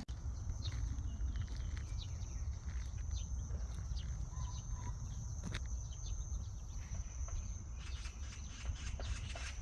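Birds chirping in short scattered calls over an insect's steady high-pitched trill, with a constant low rumble of wind on the microphone and a few light clicks of footsteps.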